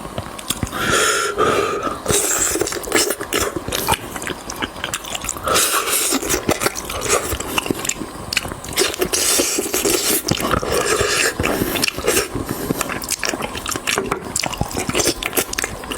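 Close-miked eating sounds: chewing and biting, with many quick clicks and smacks.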